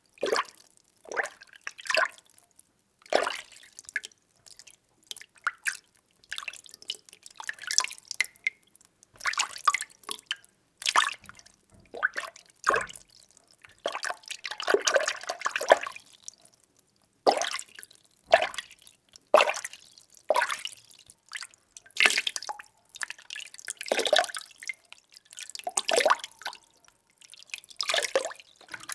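Water being stirred by hand, with irregular short swishes and splashes about once a second and a longer churning stretch about halfway through.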